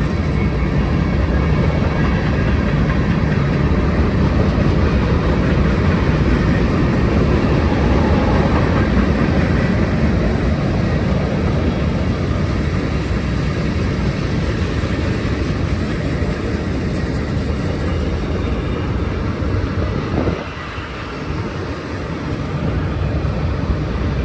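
Freight cars of a long manifest train rolling past over the summit, a steady rumble of steel wheels on rail, dipping briefly about 20 seconds in.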